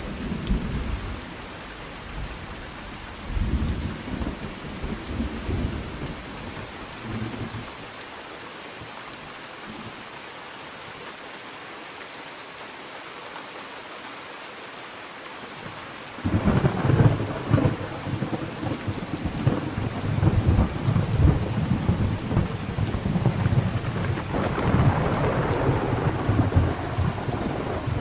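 Thunderstorm with steady rain: low thunder rumbles in the first few seconds, a quieter stretch of rain alone, then a loud roll of thunder breaks in suddenly about halfway through and keeps rumbling, swelling again near the end.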